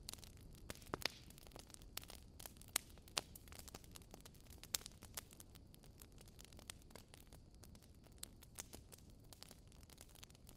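Faint, irregular crackling: scattered small sharp clicks over a low steady hiss, a few of them louder than the rest.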